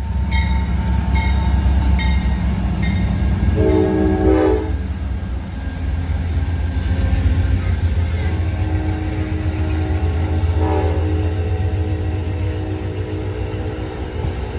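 Amtrak passenger train passing close by behind a GE Genesis diesel locomotive: a heavy low rumble of engine and wheels, with ringing strikes of the locomotive bell about once a second at first. A short horn blast about four seconds in, then the horn sounds again more faintly between about eight and eleven seconds as the coaches roll past.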